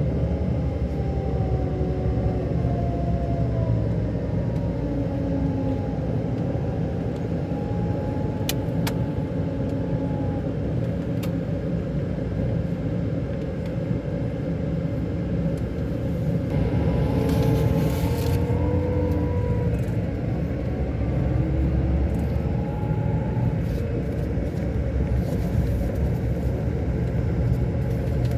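Scania K-400 Euro 5 bus engine running on the road: a steady low rumble with whining tones that rise and fall as the speed changes. There are a few light clicks about a third of the way in and a brief hiss a little past the middle.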